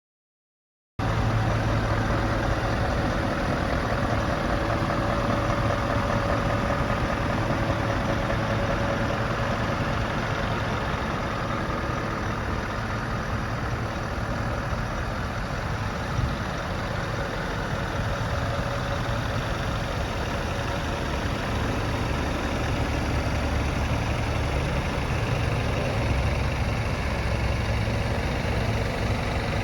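Scania S590 tractor unit's 16-litre V8 diesel engine idling steadily.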